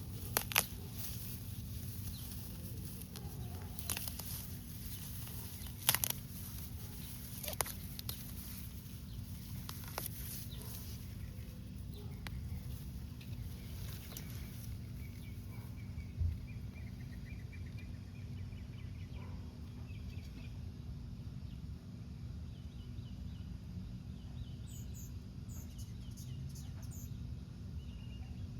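Outdoor garden ambience with a steady low rumble and a few sharp clicks in the first ten seconds, then faint rapid bird chatter, and near the end a run of short, very high-pitched descending bird chirps.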